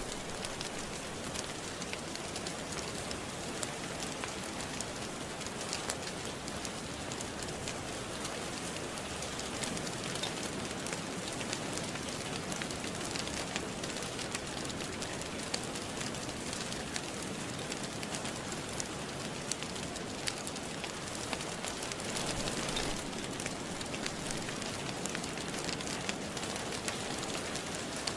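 Steady rain falling, mixed with a crackling wood fire whose small sharp pops are scattered irregularly throughout.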